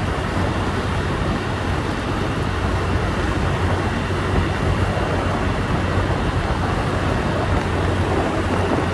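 Motorbike on the move: its engine hums steadily under a constant rush of wind and road noise.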